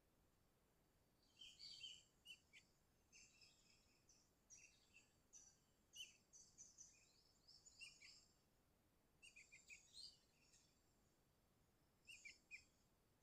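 Sooty-headed bulbul (kutilang) calling, faint: several bursts of quick, high chirps and short sliding notes, separated by brief pauses. These are a challenging bird's calls to a rival, of the kind played to lure bulbuls and set caged ones singing.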